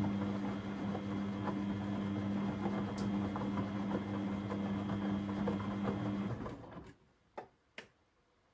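Beko WMB 71643 PTE washing machine's brushed drum motor running with a steady hum, then winding down and stopping about six seconds in. Two sharp clicks follow.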